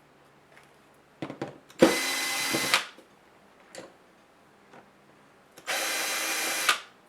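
Electric screwdriver running in two short bursts of about a second each, backing out laptop case screws, with a few small clicks of the bit meeting the screw before the first burst.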